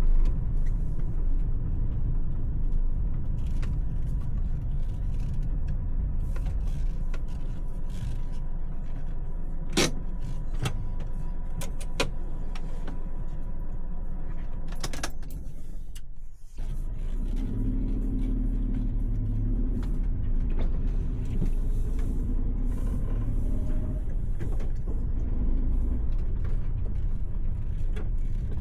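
Steady engine and road rumble of a Suzuki Every kei van on the move, with a few scattered clicks. The sound cuts out briefly about halfway through, then resumes.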